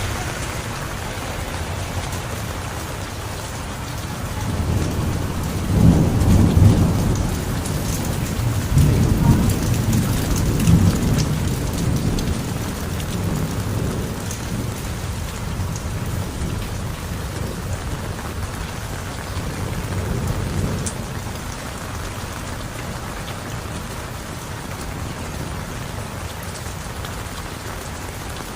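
Heavy rain falling steadily, with thunder rolling in about five seconds in, rumbling loudest for several seconds, and a weaker rumble of thunder around the middle.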